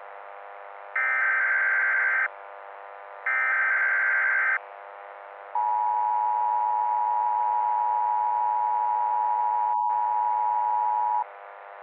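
Emergency Alert System SAME header: two screeching data bursts, each over a second long with about a second between them. Then the two-tone EAS attention signal starts about five and a half seconds in and holds steady for nearly six seconds, with one very brief dropout near its end. These are the tones that introduce a new alert message. A faint steady hum lies underneath.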